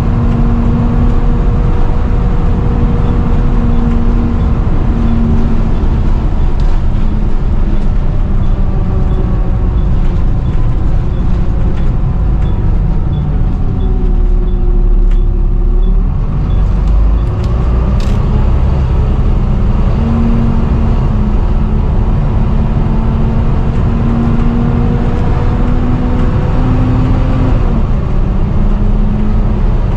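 Volvo B7TL double-decker bus's diesel engine and driveline running with a loud, steady vacuum-cleaner-like whine. The sound eases around the middle as the bus slows, then climbs again as it pulls away, with a sharp click soon after and a step down in pitch near the end.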